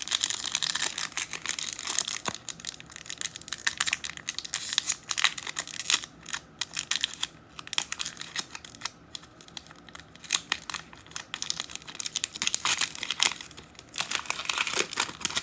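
Foil trading-card pack wrappers crinkling and tearing open, with the cards being handled and slid against each other, in a dense run of small crackles and clicks with brief pauses.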